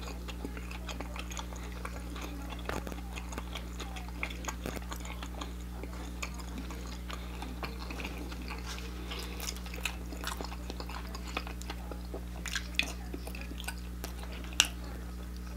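Close-up chewing of fried chicken: many small wet mouth clicks and smacks over a steady low hum, with one sharper click near the end.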